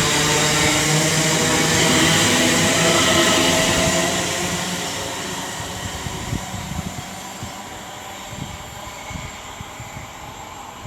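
Train running on the line, loud for the first four seconds, then fading away as it moves off.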